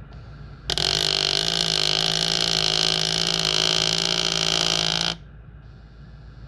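Elite Direto smart trainer's motor running with a loud grinding noise for about four seconds, starting and cutting off abruptly: the grinding it makes as the motor gets stuck.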